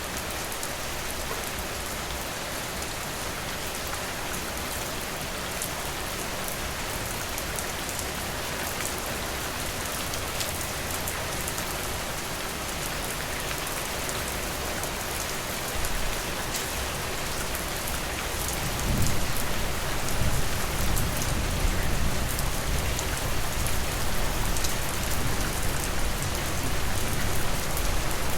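Steady rain falling, with fine drop taps through the hiss. About two-thirds of the way through a low rumble comes in underneath and stays, making the sound fuller and louder.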